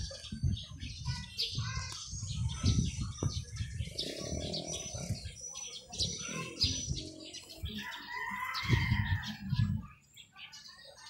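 Small birds chirping, a quick run of short high-pitched chirps that stops about seven seconds in, over low thumps and rumbles.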